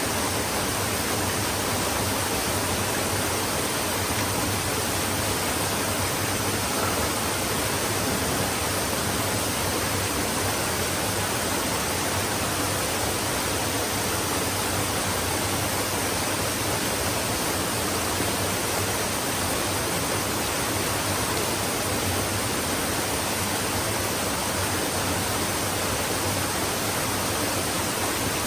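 Flowing stream: water running in a steady, even rush.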